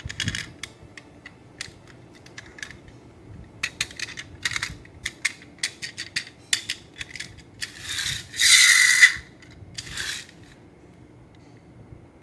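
Small diecast toy vehicles being handled, with many light clicks and clinks. There are two longer rustling scrapes, about 8 and 10 seconds in.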